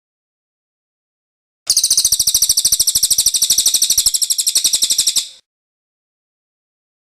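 Cililin bird singing its rolling trill: a fast, even run of high, sharp notes, about a dozen a second, lasting roughly three and a half seconds, starting after a couple of seconds of silence and cutting off abruptly.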